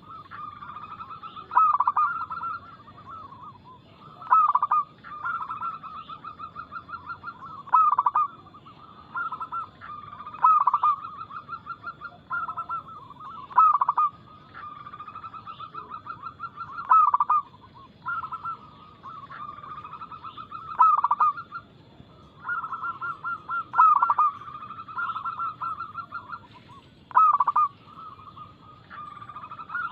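Zebra doves (perkutut) singing: phrase after phrase of rapid, stuttering coos, each a few seconds long, with a loud, sharp note about every three seconds.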